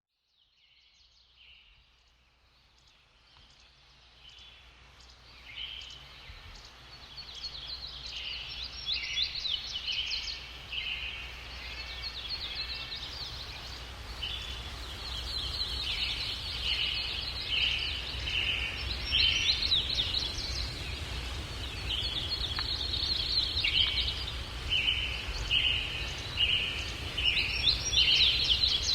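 Several birds chirping and calling in quick repeated phrases over a steady low wind rumble, fading in from near silence over the first several seconds.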